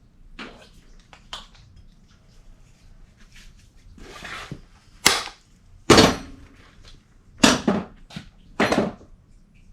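A series of sharp knocks and clatters from hard objects being handled and set down, a few light clicks followed by four loud ones in the second half.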